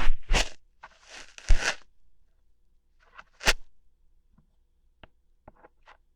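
ASMR ear-hair plucking sounds made close to the microphone: crackly scratching bursts in the first two seconds, a sharp snap about three and a half seconds in, then a few faint clicks.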